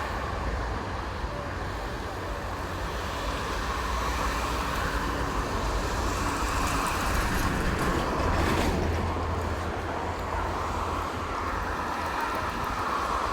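Steady road traffic from a toll road, a continuous rumble of passing vehicles that swells louder about eight seconds in as one goes by.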